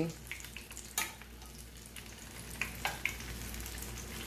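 Pumpkin fritters sizzling steadily in shallow frying oil in a frying pan. A spatula and fork working in the pan to lift them out make a few sharp clicks, the loudest about a second in.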